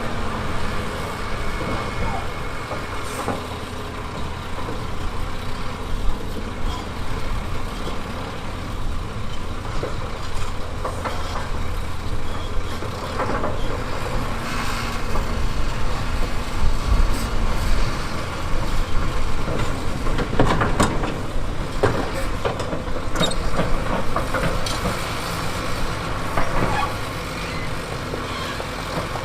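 Heavy diesel earthmoving machinery running steadily under load, with repeated knocks and clattering that are thickest in the middle of the stretch.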